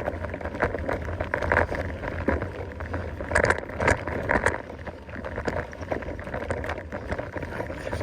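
Mountain bike rolling along a woodland trail: irregular clatters and rattles as it goes over bumps, over a steady low rumble, with the loudest jolts a few seconds in.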